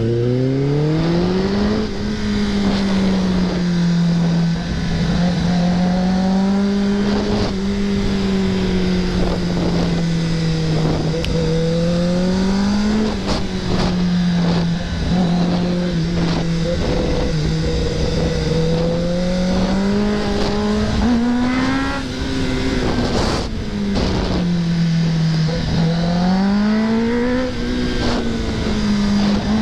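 Kawasaki ZX-10R inline-four engine under riding load, its pitch rising and falling again and again as the throttle is opened and closed through a run of corners.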